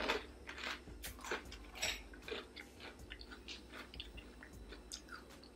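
A person chewing a mouthful of strawberry Cheerios in milk, close to the microphone: irregular soft crunches, sharpest at the start and thinning out towards the end.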